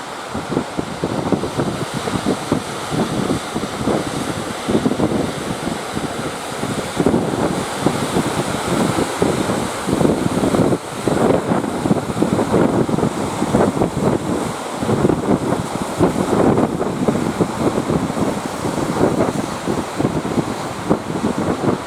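Strong wind buffeting the microphone in irregular gusts, over the wash of surf.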